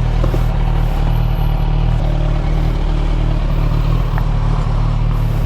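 Kawasaki Ninja 1000SX's inline-four engine running steadily as the bike is ridden, with no change in pitch.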